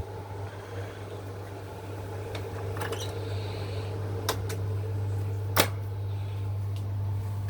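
Gree air conditioner running with a steady low hum, with a few sharp clicks in the middle, the loudest a little past five seconds in.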